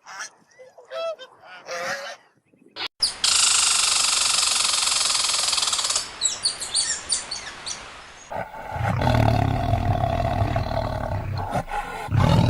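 Separate animal clips cut one after another: a few short pitched calls, then a loud steady hiss for about three seconds with quick falling chirps after it, and near the end a big cat roaring low for about four seconds.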